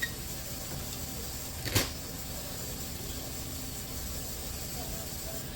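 A single sharp click, like a tool or fitting snapping, about two seconds in, over a steady faint background hum.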